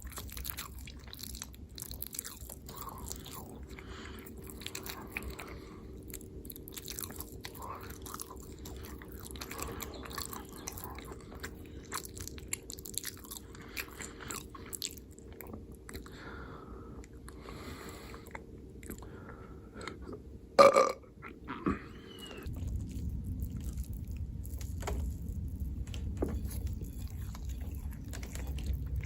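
Close-miked chewing, with wet smacks and clicks of a person eating. About twenty seconds in comes one loud burp. Soon after, a steady low hum comes in underneath.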